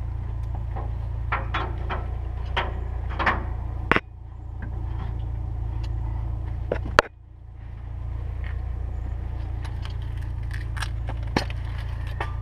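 Light metallic clicks and scrapes of handling over a steady low rumble, with two sharper knocks about four and seven seconds in.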